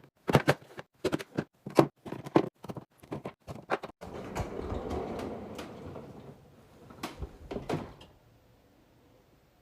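Items being set into a refrigerator while it is restocked: a quick run of clicks and knocks, a few seconds of rustling, then two more knocks, after which it falls nearly silent.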